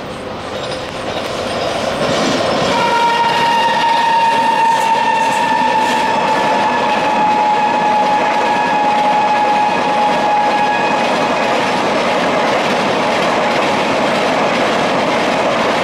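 WAP-7 electric locomotive horn sounding one long blast that starts about three seconds in, holds for roughly eight seconds and sags slightly in pitch. Under it, the rising, then steady rush and rail noise of the Rajdhani Express's LHB coaches passing at speed.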